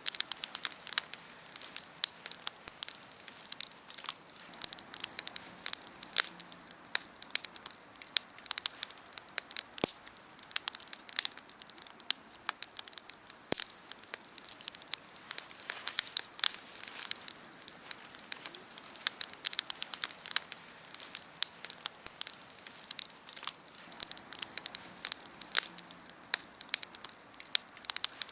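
Wood campfire crackling, with many irregular sharp pops and snaps, several a second, over a soft hiss of burning.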